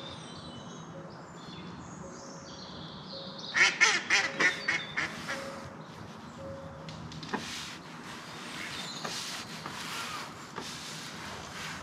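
A duck quacking in a quick run of about six calls a few seconds in, with small birds singing.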